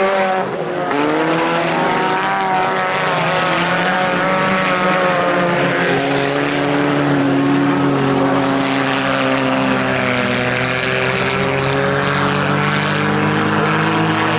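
A field of IMCA Sport Compact race cars running at speed, their four-cylinder engines overlapping, with several engine notes rising and falling as the cars work through the turns.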